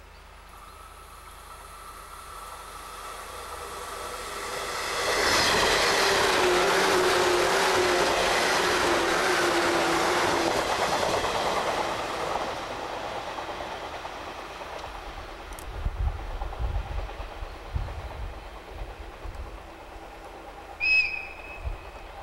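Electric passenger train passing close by: its noise builds over about five seconds, stays loud with a slowly falling hum and wheel clatter for about five more, then fades away. Low rumbling thumps follow, and there is a short high tone near the end.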